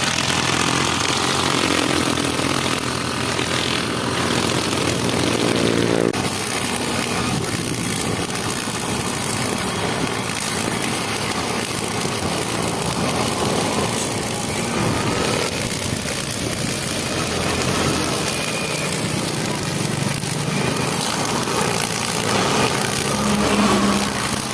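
Petrol brush cutter (string trimmer) engine running at speed. It gives a steady engine note for about the first six seconds, then a rougher, noisier sound for the rest.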